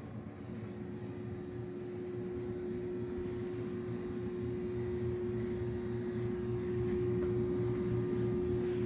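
Steady mechanical hum with one constant mid-pitched tone and a faint regular pulsing underneath, growing slightly louder, with a few faint rustles.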